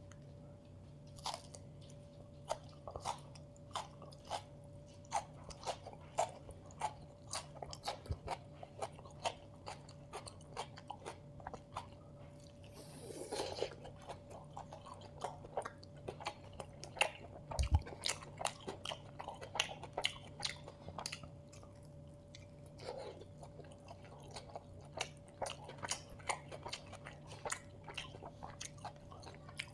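Close-miked eating: wet chewing and crunching bites of food, a sharp mouth click about twice a second throughout, with a longer hissy slurp or breath about 13 seconds in and a dull thump near 18 seconds, over a faint steady hum.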